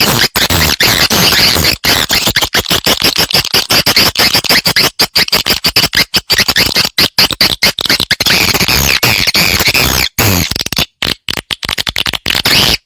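Recorded swiftlet calls played as a lure to draw swiftlets to nest: a dense, rapid stream of high twittering chirps, chopped by many short abrupt gaps.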